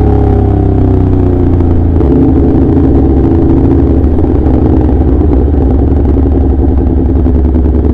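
Aprilia RSV4 RF's V4 engine running through an SC Project S1 slip-on exhaust, loud, its pitch easing down a little at first and then holding steady.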